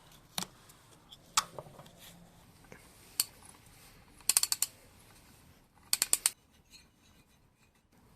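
Sharp metallic clicks from hand tools at work: a few single clicks, then two quick runs of four or five clicks, about four and six seconds in.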